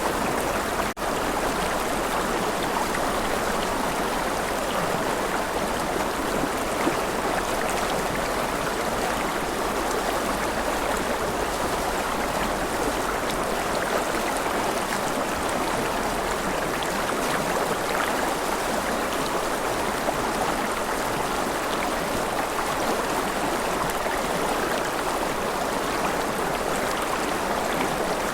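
River water flowing steadily through a forest, a continuous rushing with no breaks apart from a brief drop in level about a second in.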